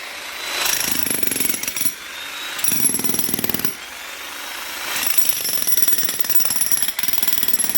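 Jackhammer-style power hammer running in several bursts of rapid blows, each a second or two long, with short pauses between.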